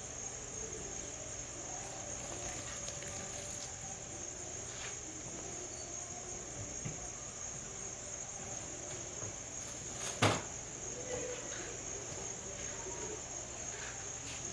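Steady high-pitched trilling of night insects, with faint scattered clicks and one sharp knock about ten seconds in.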